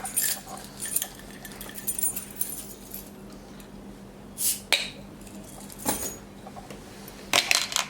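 Clinks of glass and metal as a beer bottle is opened with a key, with a few louder, sharp noises, one about halfway through and a cluster near the end. A steady low hum runs underneath.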